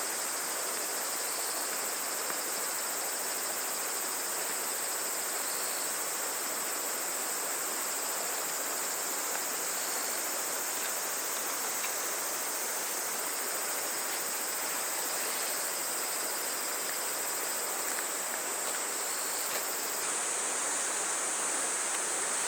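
Steady high insect trilling over the even rush of a small stream; the insect sound grows louder near the end.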